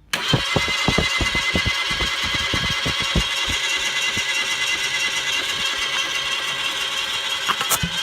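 Chevrolet/Daewoo A08S3 0.8-litre three-cylinder SOHC engine starting up abruptly and running, with uneven low thumps in the first few seconds that thin out. A few sharp clicks come near the end.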